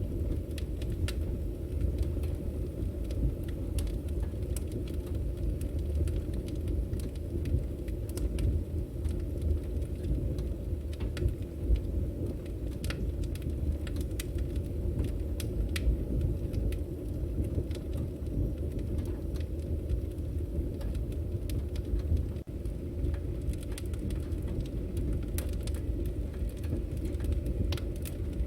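Burning firewood: a steady low rush of flames with irregular crackles and pops from the wood throughout.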